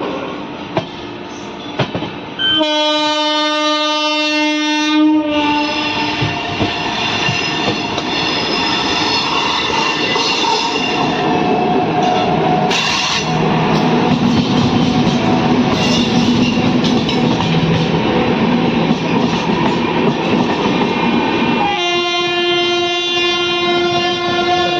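Indian Railways train passing close, its locomotive horn sounding twice: one blast of about two and a half seconds near the start, and another starting about three seconds before the end and still going. Between them is the loud, steady rumble of the train running by, wheels clattering on the rails.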